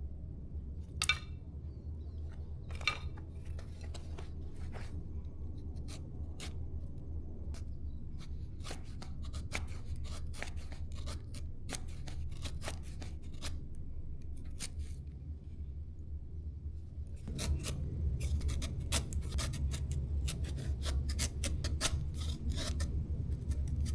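Firewood being chopped and split with a blade: two sharp, ringing strikes near the start, then a run of irregular clicks, cracks and scraping that grows busier and louder in the last several seconds. A low steady rumble sits underneath throughout.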